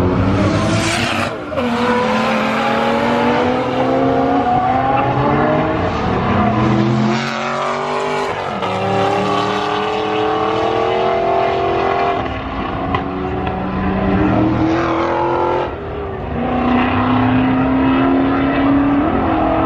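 Car engines revving, their pitch rising and falling again and again, with some tyre squeal.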